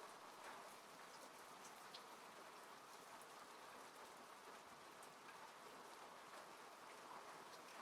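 Faint steady rain falling on a car, heard from inside, with scattered individual drops ticking through the even hiss.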